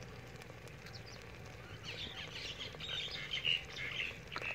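Birds chirping, a run of short calls starting about two seconds in, over a faint low steady hum; a single sharp click near the end.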